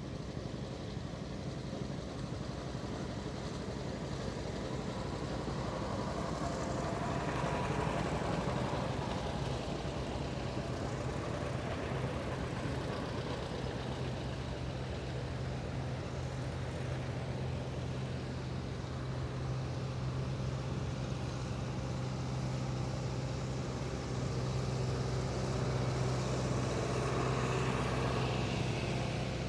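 Farm tractor engines running steadily as tractors drive past on a ride. The sound swells as passes come close, about eight seconds in and again near the end.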